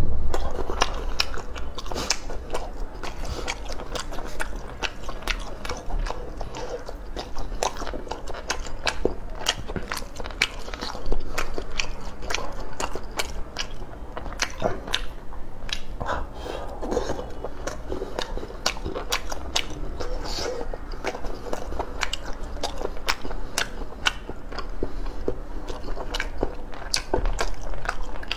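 Close-up chewing and biting of braised pork belly and rice noodles, with many sharp, wet mouth clicks at an irregular pace.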